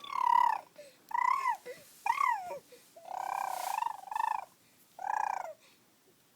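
Five short, high-pitched squealing calls, each bending up and down in pitch. The fourth call is longer and rough.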